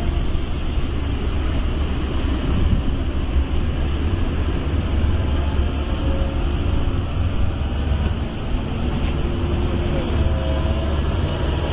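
Excavator's diesel engine running steadily under load, with a continuous low rumble.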